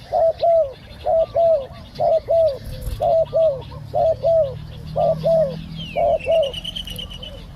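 Spotted dove cooing in a quick series of two-note phrases, each about half a second, until about six and a half seconds in. A faint, higher bird trill comes in near the end.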